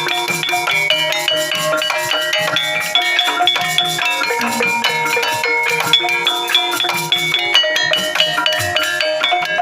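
Javanese gamelan ensemble playing a Banyumasan tayub gending, instrumental: many quick struck, pitched notes interlock in a steady, dense rhythm.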